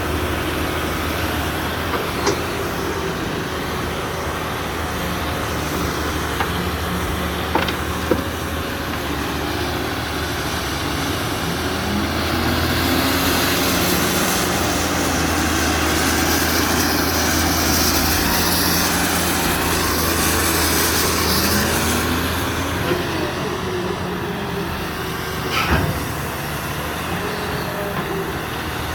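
Caterpillar 330B hydraulic excavator's diesel engine running steadily. It gets louder for about ten seconds in the middle, with a whine that rises and falls. A few sharp knocks come through, the loudest near the end.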